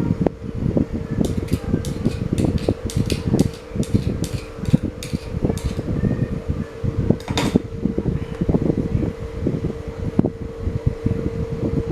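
Restored standing electric fan running: a steady motor hum with the air stream buffeting the microphone. A quick run of light clicks comes in the first half, and one more click follows a couple of seconds later.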